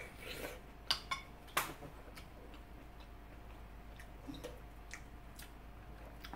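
Close-up eating sounds: a person chewing a mouthful of stir-fried sundae and udon noodles, with small wet mouth ticks. Three sharp clicks come about a second in.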